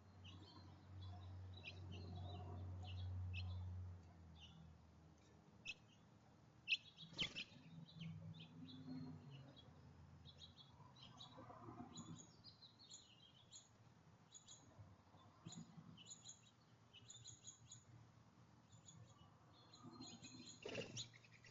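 Small songbirds chirping faintly: many short, high chirps scattered throughout, over a low steady hum that stops about four seconds in.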